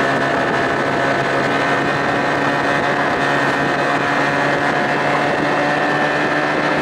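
2000 Johnson 25 hp outboard running steadily under way, its engine note holding a constant pitch over a steady rush of wind and water.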